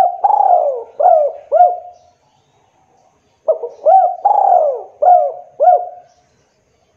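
Spotted dove cooing: two phrases of four or five coos each, every note rising quickly and sliding back down. The phrases are separated by a pause of about a second and a half.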